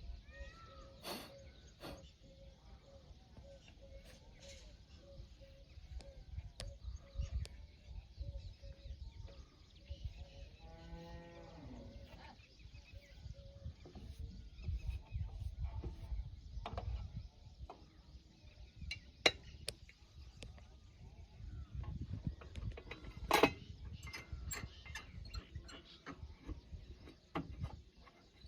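A farm animal's call: one long call falling in pitch, about eleven seconds in, over a low steady rumble, with a few sharp clicks and knocks later on.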